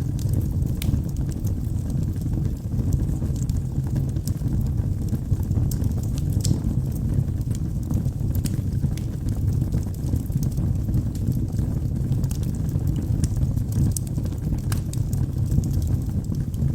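Wood fire burning in a fireplace: a steady low rumble of the flames with frequent small crackles and pops from the burning logs.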